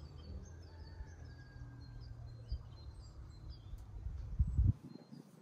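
Small birds chirping on and off over a low, steady rumble of background noise. Near the end come a few low thumps, and then the rumble cuts off suddenly.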